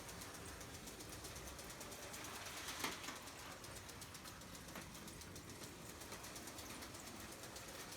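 Lego Emerald Night train model running on Lego 12V track: a faint, quick, even mechanical clatter of its small electric motor and wheels, with a sharper click about three seconds in.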